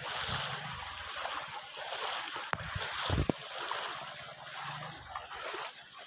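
Floodwater rushing, a steady hiss of moving water. Two sharp knocks come about two and a half and three seconds in.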